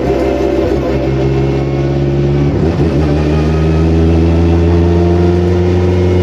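Turbocharged car engine running hard at 1 bar of boost, a loud steady note whose pitch dips briefly about two and a half seconds in and comes straight back up.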